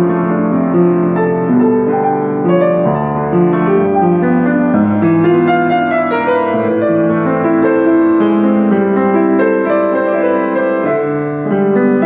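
Steinway & Sons Model R upright piano being played: chords and melody notes held and ringing into one another.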